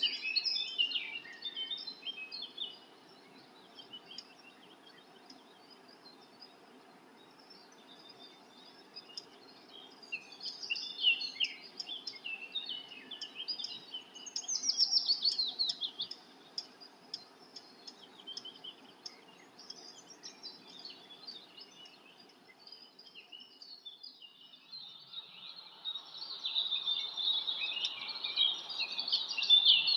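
Birds chirping in short, overlapping calls and trills over a faint low hum. The chirping is sparse in the middle and grows denser and louder in the last few seconds.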